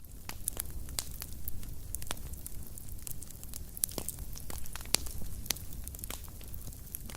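Wood fire in a fireplace crackling, with irregular sharp pops and snaps over a low steady rumble of the flames; two louder pops about four and five seconds in.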